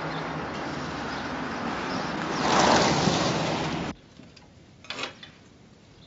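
Car driving at speed, its road and engine noise swelling to a peak, then cutting off abruptly. A faint background follows, with one brief knock about a second later.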